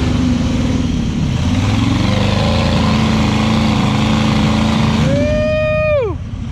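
Off-road vehicle engine running steadily. About five seconds in, a high whine comes in, holds for about a second, then drops away sharply in pitch.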